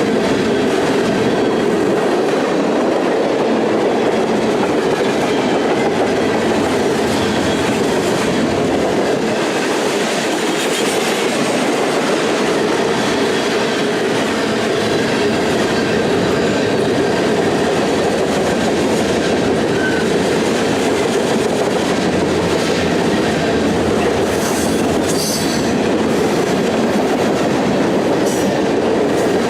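Freight train cars rolling past at steady speed, a continuous rumble and clatter of steel wheels on rail, with a few brief high wheel squeals near the end.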